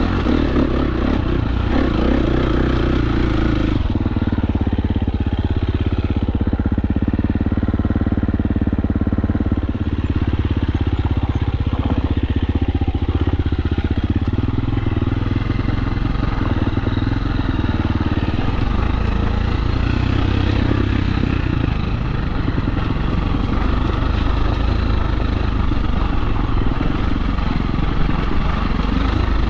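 KTM 350 SX-F dirt bike's four-stroke single-cylinder engine running under riding, its revs rising and falling with the throttle.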